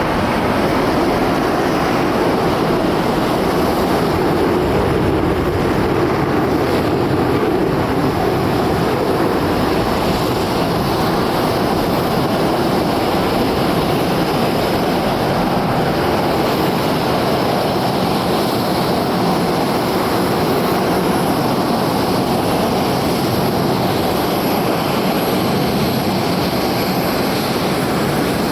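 Steady jet roar from the F-22 Raptor's two Pratt & Whitney F119 turbofans, holding an even level without a clear rise or fall.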